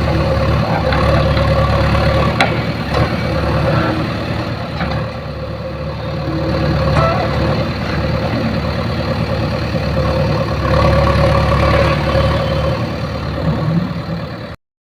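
JCB backhoe loader's diesel engine running steadily, swelling louder a few times, with a few sharp knocks, then cutting off suddenly near the end.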